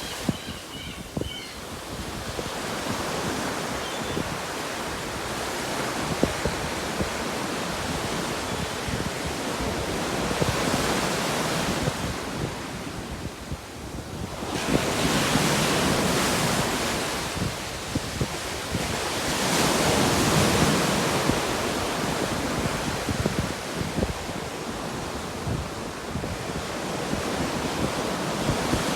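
Ocean surf washing and breaking, with wind on the microphone. The surf swells louder twice, about halfway through and again about two-thirds of the way in.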